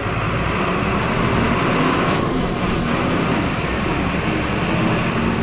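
Volkswagen 17.230 EOD city bus's diesel engine running steadily while the bus is under way, heard from inside the passenger cabin mixed with road and rattle noise.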